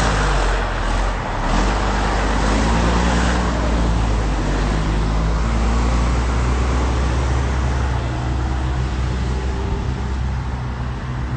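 A motor vehicle's engine running steadily close by, with street traffic noise around it.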